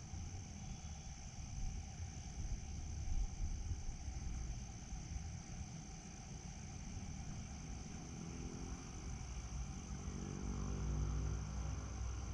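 Outdoor ambience of an insect chorus, a steady high-pitched shrill, over a low rumble. From about eight seconds in, a low droning hum grows louder.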